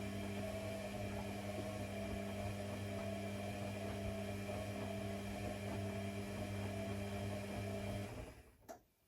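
A steady electric hum that cuts off about eight seconds in, followed by a single click.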